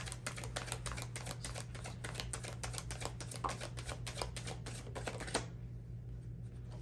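A tarot deck being shuffled by hand: a dense run of quick card clicks that stops suddenly about five seconds in, over a low steady hum.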